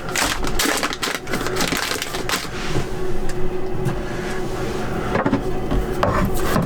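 Rustling, knocking and clattering of belongings being handled and packed away into storage, with a steady low hum underneath.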